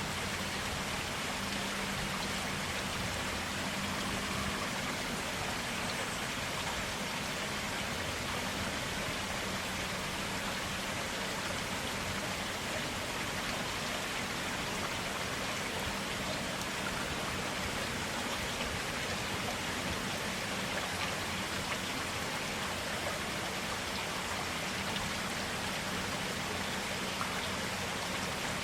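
Clear stream water flowing steadily, an even splashing rush of water with no pauses.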